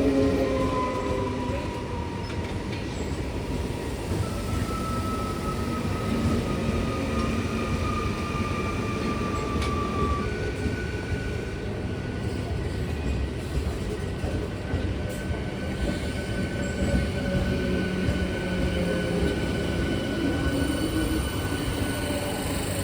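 A train running along the track: a steady rumble of wheels on rails, with long, drawn-out high wheel squeals through much of it.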